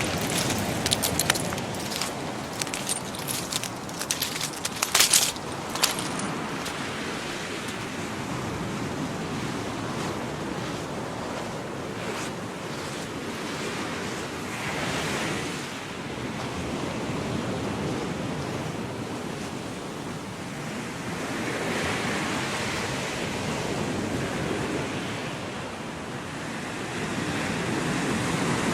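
Gulf of Mexico surf washing onto the beach, a steady wash that swells and ebbs with each wave. A run of sharp crackles stands out in the first few seconds.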